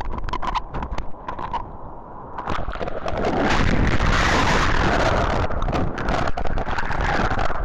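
Wind buffeting the microphone with crackling clicks, then from about three seconds in a loud, steady rush of wind and breaking typhoon surf.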